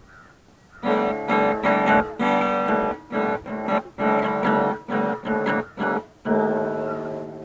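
Guitar music: plucked and strummed chords starting about a second in, played in short phrases with brief gaps between them.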